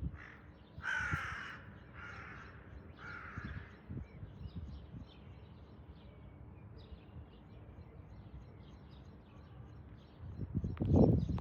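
A bird gives four harsh, crow-like calls about a second apart, followed by faint chirping. A low rumbling noise rises near the end.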